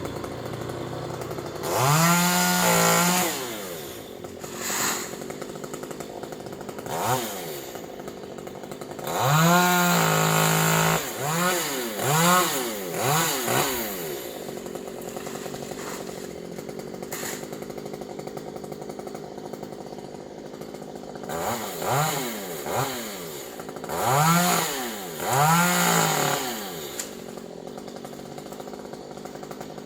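Two-stroke chainsaw idling and being revved in repeated throttle bursts. It is held at high revs twice, for about a second or two early on and around ten seconds in, with quick blips in between and in the latter half, each time dropping back to a steady idle.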